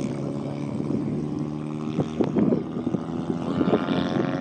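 Car engine and road noise heard while driving, a steady hum at first. Near the end the engine's pitch rises as the car speeds up.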